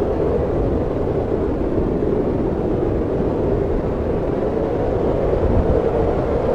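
Steady snowstorm wind, a dense rushing rumble that stays even with no gusts or breaks.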